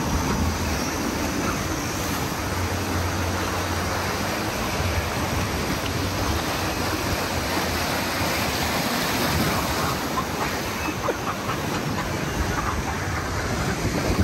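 Rushing white water churning around a circular river-rapids raft, a steady wash of water noise, with a low hum through the first half.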